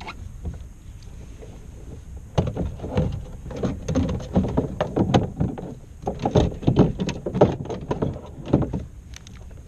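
A run of irregular knocks and thumps against a plastic kayak hull, starting about two seconds in and stopping near the end.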